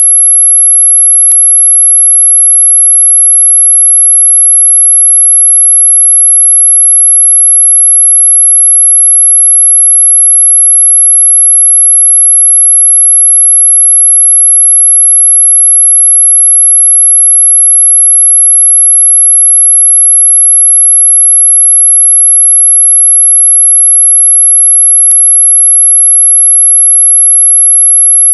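A loud, steady, very high-pitched pure tone that holds one unwavering pitch throughout. It is an electronic tone played as a mosquito-repellent sound; it is high but audible, not truly ultrasonic.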